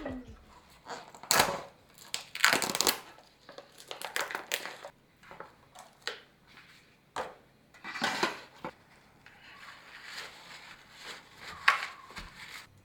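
Kitchen handling noises: a series of irregular scrapes and knocks, several short and sudden, as dishes and food are handled.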